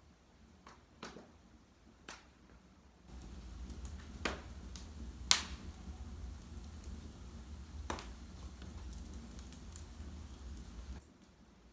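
Wood fire in a fireplace crackling, with scattered sharp pops, the loudest about five seconds in. From about three seconds in, a low rumble sits under the pops and cuts off suddenly near the end.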